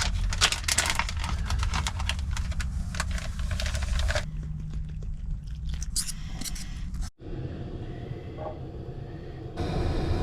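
Pancake batter being mixed: dense irregular clicking and scraping for about four seconds, then quieter handling, over a low steady hum.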